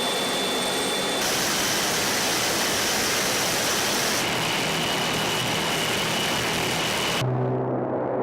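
Steady rushing aircraft engine noise that changes abruptly twice, then gives way near the end to a low, even drone.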